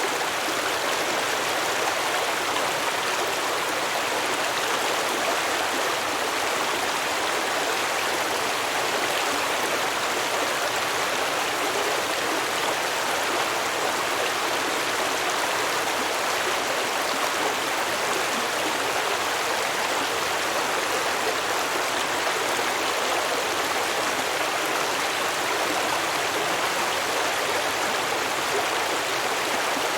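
Stream water running and babbling over rocks, a steady even rush with no change throughout.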